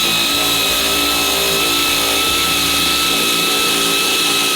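Air-powered shop tool running steadily with the trigger held: a high, even whine over a loud hiss that cuts off abruptly.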